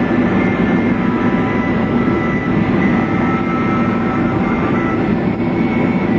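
Boeing 767 cabin noise during taxi: the jet engines running at idle thrust, a steady rumble with a few steady whining tones on top.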